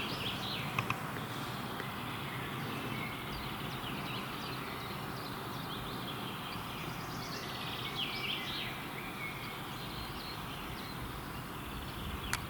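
Forest birds singing: short, scattered chirps and trills over a steady background hiss.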